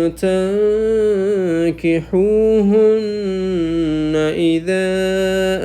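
A man's voice chanting Quranic recitation in the melodic tajweed style. He holds long, drawn-out notes with slow wavering ornaments in pitch, broken by two or three brief pauses.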